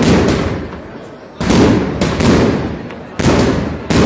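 Fireworks display: aerial shells going off in quick succession, about seven sharp bangs in four seconds, each followed by a fading echo.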